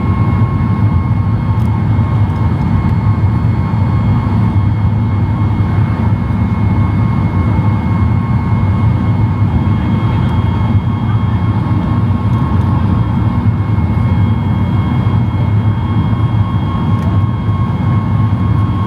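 Steady in-flight cabin noise of a Boeing 737 MAX 8: the low, even rumble of its CFM LEAP-1B jet engines and the air rushing past the fuselage, with a thin steady whine held above it. A fainter, higher tone joins about halfway through.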